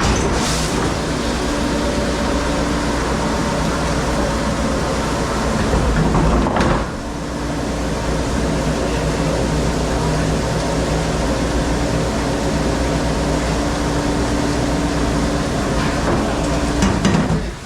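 A large machine running steadily with a low hum and a loud rushing noise, its sound shifting briefly about seven seconds in.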